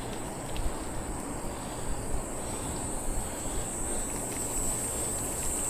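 Insects shrilling in a steady high band that grows louder toward the end, over a steady low rumble.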